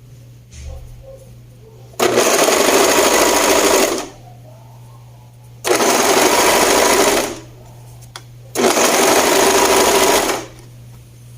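Sewing machine stitching fabric in three runs of about two seconds each, with short pauses between them.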